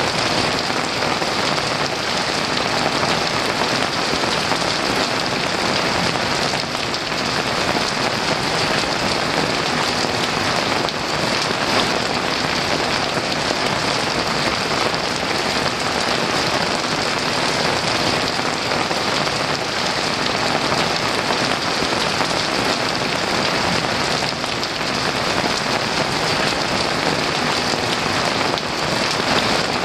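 Heavy rain pouring steadily on a roof, a dense, even hiss with no let-up.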